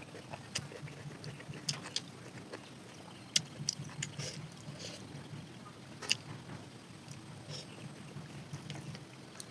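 Eating sounds of a mukbang: chewing with wet lip smacks and scattered sharp clicks, the loudest about three and a half seconds in, over a steady low hum.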